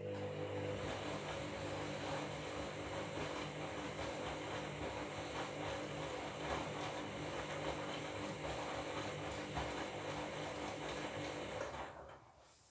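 Washing machine running a wash: the drum motor hums steadily while the laundry and water churn inside, then it stops about twelve seconds in.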